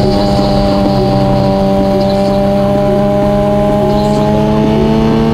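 Engine running at a steady cruise, heard from inside a moving car, its pitch creeping up slightly near the end as the speed rises, over road noise.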